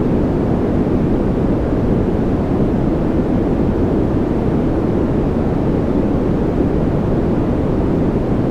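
Continuous white-noise track: an even, unchanging rushing hiss, deep rather than bright, with most of its weight in the low end and little high hiss.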